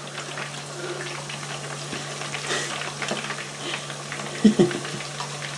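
Food frying on a cooker hob: a steady sizzle with scattered small crackles, over a steady low hum.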